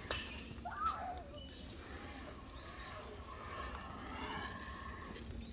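Faint, distant voices, with a short call about a second in, over steady outdoor background noise.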